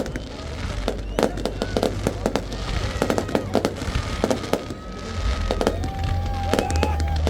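Fireworks going off: a rapid, irregular string of sharp bangs and crackling pops.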